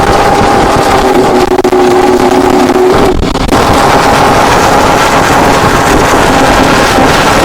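Car driving along: a steady engine drone over road and wind noise, with a brief dip about three seconds in.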